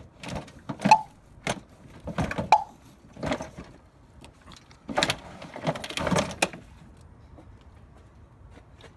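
Knocks, clunks and scrapes of the old radiator being worked loose and lifted out of the truck's engine bay, a dozen or so irregular impacts that stop about six and a half seconds in.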